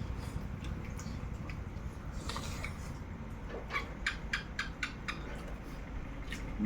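Close-miked mukbang eating sounds: chewing, with a quick run of crisp clicks and crunches a little after halfway.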